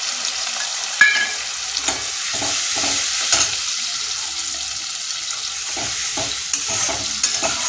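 Onions and ginger–dried-chilli paste sizzling in hot oil in a metal kadai, with a metal spatula scraping and clicking against the pan as the mixture is stirred. A sharp ringing metal clink about a second in is the loudest sound.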